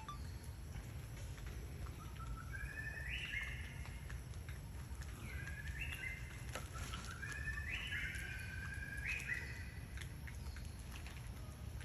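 A bird calling in short clear notes that step up in pitch, one run a few seconds in and several more in the middle, over a steady low outdoor rumble.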